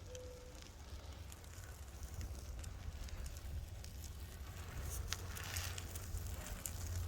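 Wind buffeting the microphone in a low steady rumble, with scattered light crackles and clicks over it.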